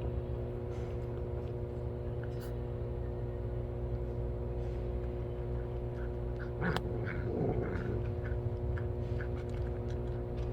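Cats eating, with small scattered ticks and crunches, over a steady hum. About seven seconds in there is a louder click and a short burst of cat sound.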